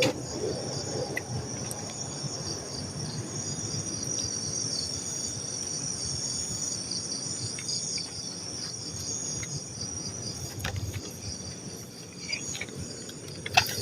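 Crickets and other night insects chirping steadily in a high, pulsing chorus, over a low rumble, with a sharp click near the end.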